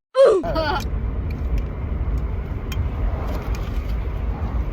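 Steady low road and engine rumble inside a moving car's cabin. A brief loud voice fragment comes right after a short dropout at the start.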